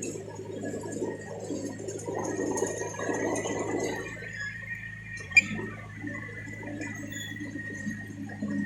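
Heavy machine's diesel engine running steadily, with a rattle for the first four seconds and a single sharp metallic click about five seconds in.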